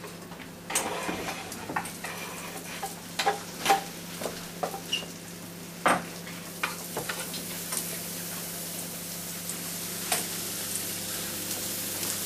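Sliced sausages and chopped onion frying in butter in a pan, sizzling steadily, the sizzle growing stronger in the second half. Over it come sharp knocks and scrapes of a knife on a wooden cutting board and a spoon in the pan.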